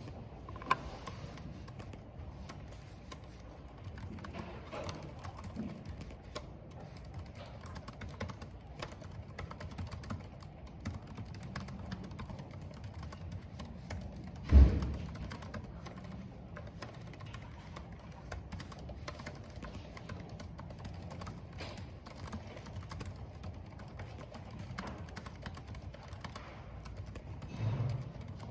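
Computer keyboard typing in quick, uneven clicks over a steady hiss of rain and wind, with one loud low thump about halfway through.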